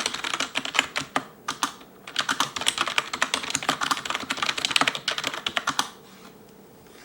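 Fast touch-typing on an ELECOM TK-FDM088TBK wireless membrane keyboard, its keys clacking in quick runs with a short lull about a second and a half in. The typing stops about six seconds in.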